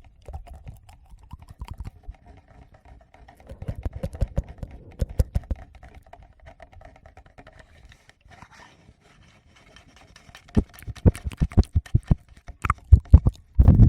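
Fingertips tapping and rubbing directly on a Tascam recorder's microphones, making irregular quick clicks and soft thumps in two clusters with a quieter pause between them.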